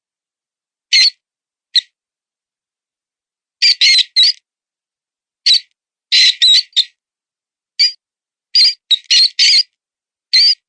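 Mouse-squeak predator call imitating a wounded mouse in distress: short, shrill squeaks, some alone and some in quick runs of two to four, separated by silence. It is used as a lure to draw foxes and other predators.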